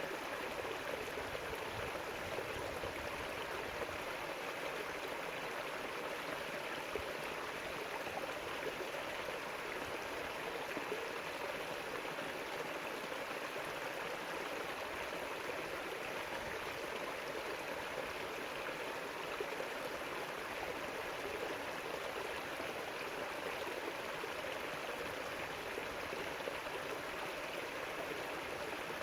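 River water flowing and splashing, a steady even rush.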